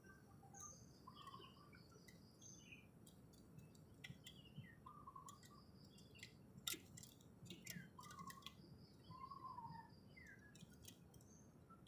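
Faint bird calls: scattered short chirps and brief gliding whistles, some high and some lower, with a few sharp clicks between them.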